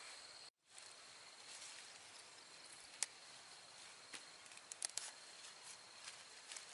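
Faint rural outdoor ambience: a steady high insect drone with a few small sharp clicks, and a brief dropout about half a second in.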